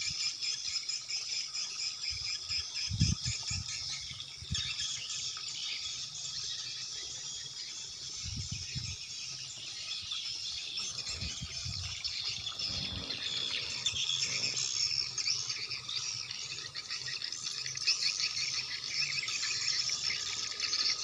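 Dense, continuous high-pitched twittering of edible-nest swiftlets gathering at a swiftlet house in the late afternoon. A few low thumps from wind or handling on the microphone come in about 3 seconds in and again between 8 and 13 seconds.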